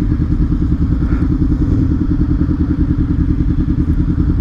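Honda CBR500R parallel-twin motorcycle engine running steadily at low revs, an even, rapid throb.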